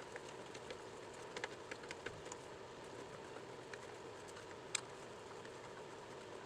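Faint, scattered metal clicks and taps of a wrench working a motorcycle seat bolt loose, with one sharper click about three-quarters of the way through, over a low steady hum.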